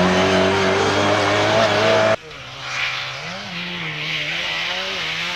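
Race car engine running hard at high revs, its note gliding slightly. About two seconds in it cuts off abruptly to a quieter engine note that wavers up and down in pitch.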